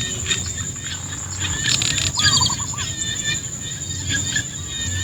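Birds chirping in short repeated phrases over a steady high-pitched insect drone, with a low rumble underneath.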